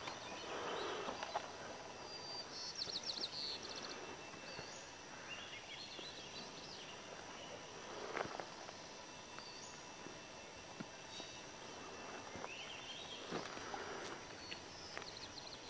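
Faint outdoor ambience with scattered bird calls: short high chirps and rising whistled notes every few seconds over a low, even background hiss.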